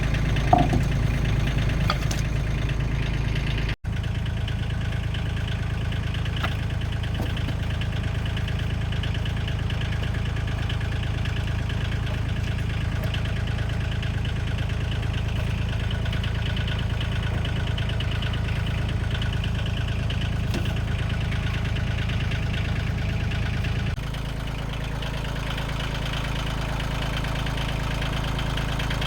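An engine idling steadily, with a momentary dropout about four seconds in.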